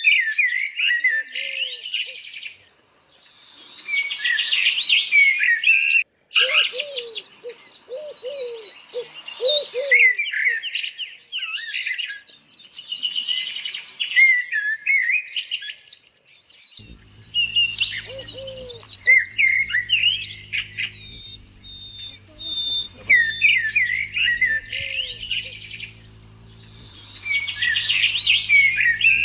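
Several birds chirping and trilling in quick high notes, with runs of lower repeated call notes mixed in. Partway through, a steady low hum joins underneath.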